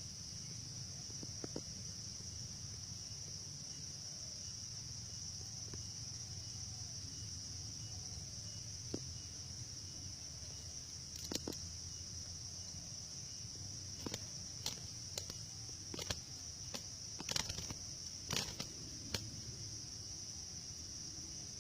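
Steady high-pitched insect chorus, with a scattered run of sharp clicks and knocks in the second half.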